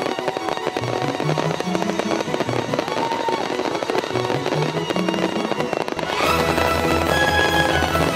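Fireworks display crackling and popping under instrumental music; the music's bass gets louder about six seconds in.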